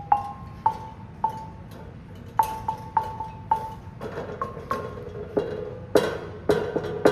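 A local tuned percussion instrument being struck by hand: a run of single notes at a few different pitches, each ringing briefly. The strokes come faster toward the end, where lower notes are played loudest.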